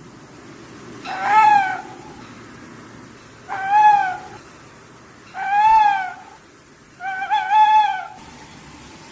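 Owl calling four times, each call drawn out for about a second and rising then falling in pitch, about two seconds apart; the last call wavers.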